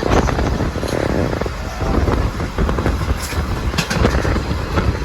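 Passenger train running at speed: a steady low rumble of the carriage with irregular clattering from the wheels and track.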